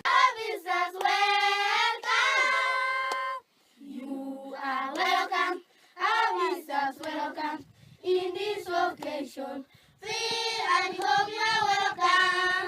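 A group of voices, children among them, singing a song together in phrases, with short breaks between phrases.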